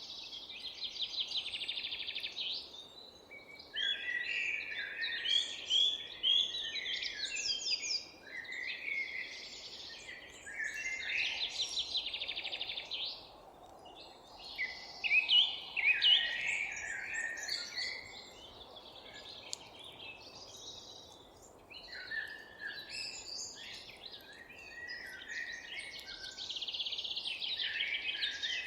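Several songbirds singing in overlapping phrases every few seconds, some of them fast trills, over a faint steady background hum.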